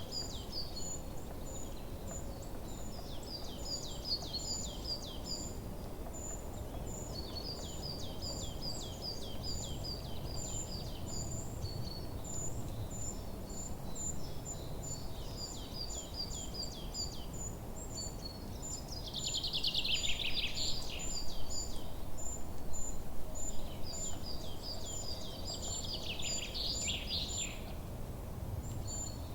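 Several birds singing: one gives a short high chirp over and over, about twice a second, while others sing phrases of quick falling notes, with two louder, denser bursts of song about two-thirds of the way through and near the end. A steady low rumble runs underneath.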